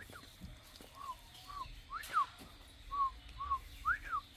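Clear whistled notes: two short notes followed by a longer note that rises then falls, the phrase repeated twice.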